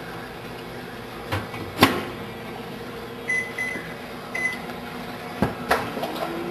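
Microwave oven being closed and set: a sharp door click about two seconds in, short keypad beeps past three and four seconds, then more clicks, over a steady low hum.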